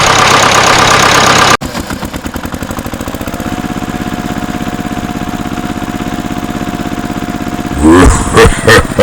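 A small engine running with a fast, even beat. It follows a loud, harsh noise that cuts off abruptly about one and a half seconds in. Near the end the engine gives several loud, separate bursts, like blips of the throttle.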